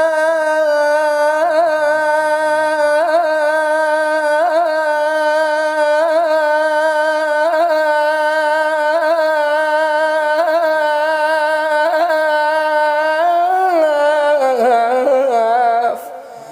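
A man chanting, unaccompanied, in Iraqi munshid style, holding one long note with a small ornamental turn about every one and a half seconds. The note slides down a step about three-quarters of the way through and breaks off shortly before the end.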